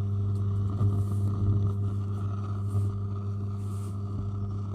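Home theatre amplifier putting out a steady low hum with an even buzz above it, the noise fault it has come in for repair with.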